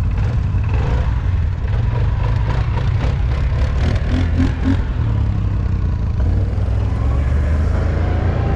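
ATV engine running with a steady low rumble, and a quick run of rattling clicks about two to five seconds in.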